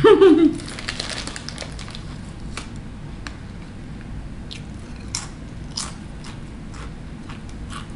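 Crunching and chewing on a crisp snack chip: a quick run of crunches early on, then single sharp crunches spaced out over the next several seconds.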